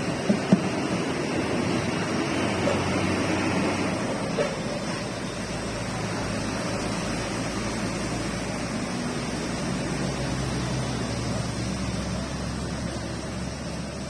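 Steady rain falling, a continuous even hiss, with a couple of small knocks about half a second in.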